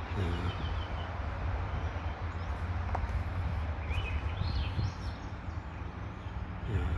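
Birds chirping a few times over a steady low rumble.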